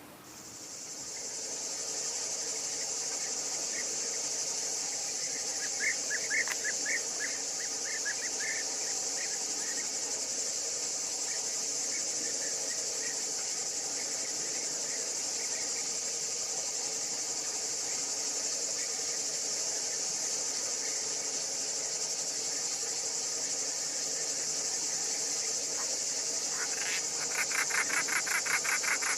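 A steady, high-pitched chorus of insects, crickets or similar, with a few short chirps about six to nine seconds in and a fast pulsing trill near the end.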